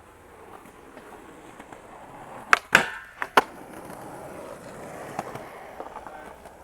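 Skateboard wheels rolling on pavement, broken by a quick run of four sharp board clacks about two and a half to three and a half seconds in, as of a trick or the board hitting the ground.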